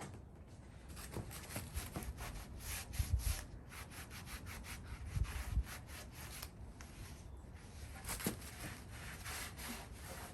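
Hand sanding on the rusty metal side of an antique wood stove: quick, scratchy back-and-forth strokes, with a couple of dull bumps about three and five seconds in.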